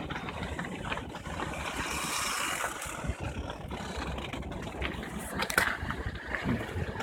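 Toyota car with a creaking front strut mount, heard over steady vehicle noise, with a short cluster of clicks and a squeak about five and a half seconds in; the creak is the sign of a worn strut mount (support bearing).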